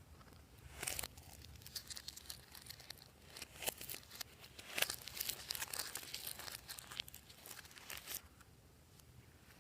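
Slime being squeezed and worked by hand, giving a dense run of small crackling pops and clicks that stops about eight seconds in.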